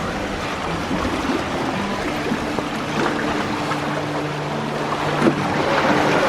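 Lake Superior waves washing onto a rocky shore: a steady rush of surf that swells louder near the end as a wave breaks. Low held tones that shift in pitch sound underneath.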